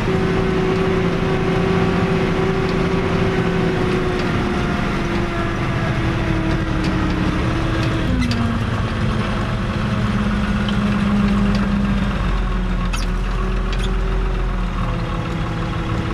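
Fiat 110-90 tractor's six-cylinder diesel engine running on the road. Its note eases down over the first half, shifts abruptly about halfway through, then climbs for a few seconds before dropping back.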